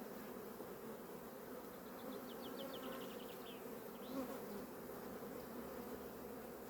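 Honey bees humming steadily around an opened hive. A short rapid run of faint high ticks comes about two seconds in.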